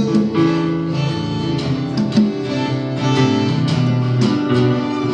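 Live band playing an instrumental passage between sung lines, led by strummed guitar with sustained chords underneath.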